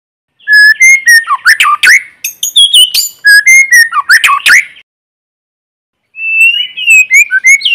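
White-rumped shama singing: a long phrase of clear whistles and quick rising and falling notes with a few sharp clicks mixed in, then a pause of over a second, then a shorter phrase near the end.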